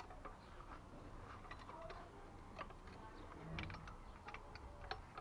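Faint, irregular light clicks and taps from small plumbing fittings and tools being handled.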